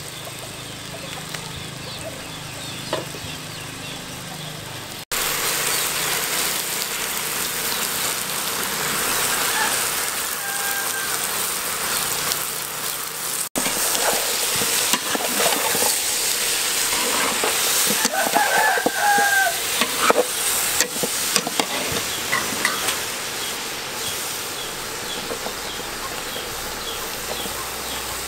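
Shredded vegetables sizzling as they are stir-fried in a metal pot and stirred with a metal spatula; the frying gets loud about five seconds in. A chicken calls a few times in the background.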